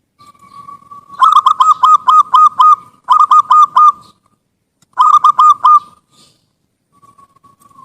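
Zebra dove (perkutut) singing its cooing song: a soft drawn-out note, then three loud runs of quick, short coos, and a soft held note again near the end.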